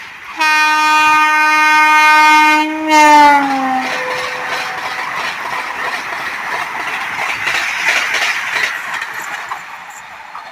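A passing train sounds a long, loud horn for about three seconds, its pitch sliding down at the end as the train goes by. The rushing noise and wheel clatter of the train running past follow and fade near the end.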